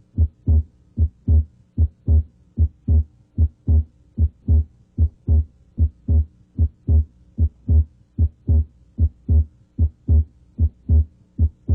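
Heart sounds at the left third intercostal space: a steady lub-dub, S1 then S2, about 75 beats a minute, over a faint steady hum. Here S2 may carry both its aortic (A2) and pulmonic (P2) components, heard as splitting during deep breathing.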